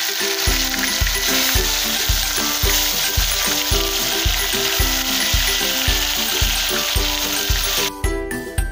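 Tomato slices frying in hot oil in a pan: a steady sizzle that cuts off abruptly about eight seconds in. Background music with a steady beat of about two thumps a second runs under it.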